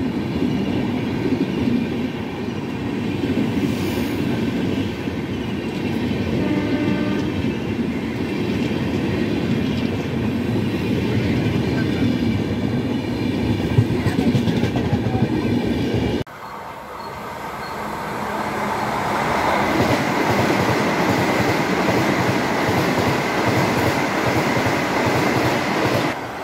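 Passenger train coaches rolling past along a station platform, the wheels clattering over the rails, with brief tonal notes mixed in. About sixteen seconds in, the sound cuts off abruptly and is replaced by a steadier rushing noise that swells and then holds.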